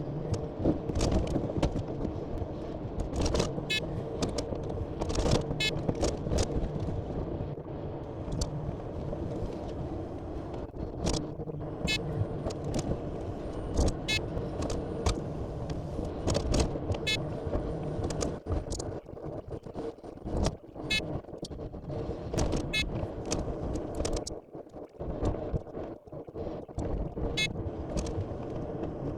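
Timber truck running with a steady low rumble, overlaid by many short sharp clicks and rattles at irregular intervals.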